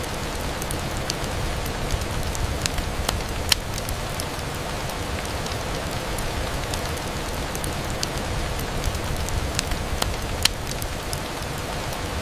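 Steady rain on a window, an even hiss with scattered sharp ticks, the loudest about a third of the way in and again near the end.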